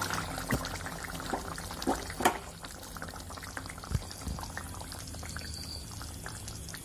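Thick fish curry gravy simmering in a pot, with scattered small pops and a few sharper ticks of bubbles bursting.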